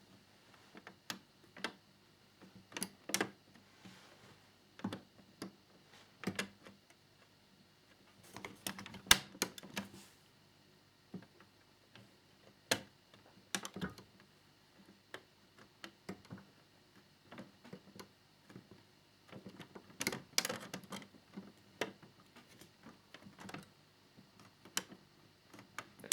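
Scattered small clicks and taps, with a few busier clusters, from a small screwdriver and tiny screws being worked into the plastic keel fairing of a scale model motorbike.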